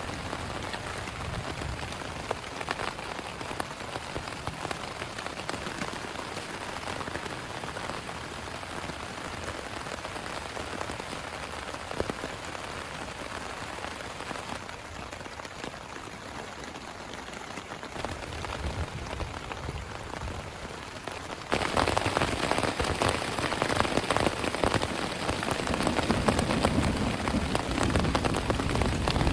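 Heavy rain falling in a steady hiss, with scattered drops pattering. About two-thirds of the way through it abruptly becomes louder and fuller.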